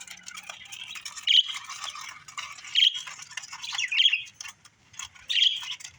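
Budgerigars chattering, with a sharp squawk about every second and a half.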